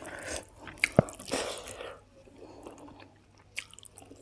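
A person chewing and eating food close to the microphone, with short noisy bursts and a sharp click or two in the first two seconds, then only faint sounds.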